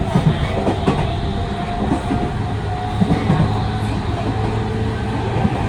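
Running sound inside a Tokyu 5000 series electric train car fitted with a Hitachi IGBT-VVVF inverter and TKM-98 traction motors: a steady rumble with faint steady motor and inverter tones, and the wheels knocking over rail joints.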